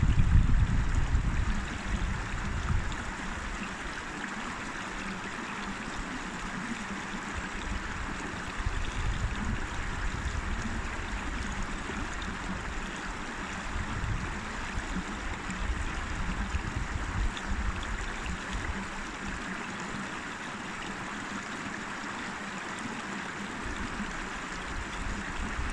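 A river or stream flowing with a steady rushing hiss of water. A low rumble of wind on the microphone is loud in the first couple of seconds, comes and goes faintly, and swells again at the end.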